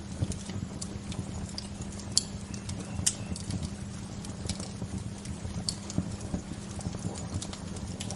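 Wood fire crackling: irregular sharp pops and snaps, the loudest about two and three seconds in, over a steady low rumble.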